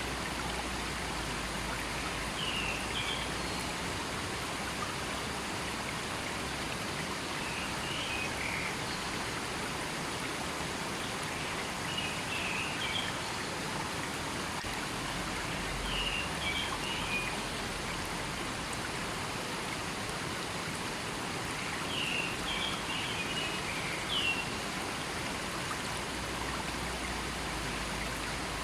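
River water flowing in a steady rush, with a bird chirping in short phrases every few seconds.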